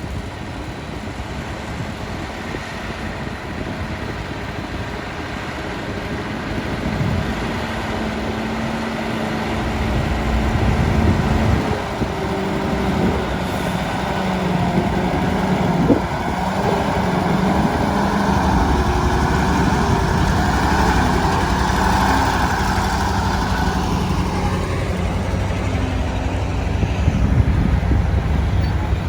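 Hyundai dump truck's diesel engine running steadily, growing louder about ten seconds in.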